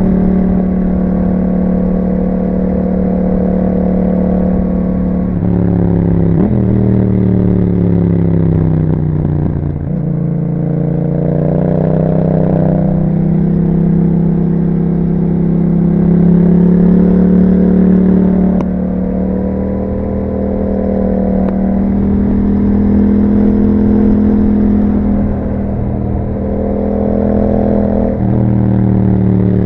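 A 2021 Yamaha MT-07's parallel-twin engine running through an Akrapovic exhaust with a dB killer while the bike is ridden. The engine pitch falls twice in the first ten seconds, climbs back, mostly holds a steady cruise with a few small dips, and rises again near the end.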